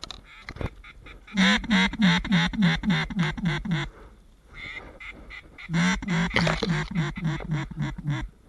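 A mallard hen-style duck call blown in two descending series of about ten loud quacks each, a short gap between them, calling to ducks flying over.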